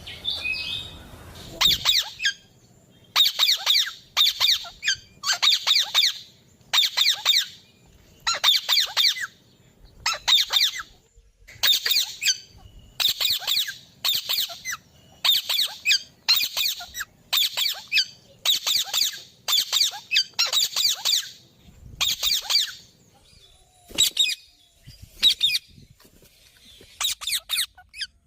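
A bird giving a harsh, chattering call over and over, about once a second, the calls growing sparser near the end.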